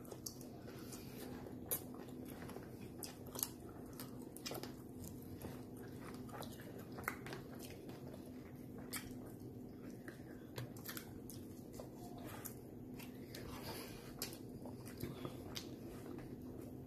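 A man chewing and eating a burger: scattered soft mouth clicks and smacks over a faint steady hum.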